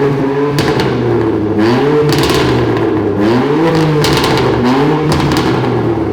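BMW M2 Competition's twin-turbo inline-six blipped about three times through an Active Autowerke aftermarket exhaust, each rise in revs falling back with sharp pops and crackles. Very loud.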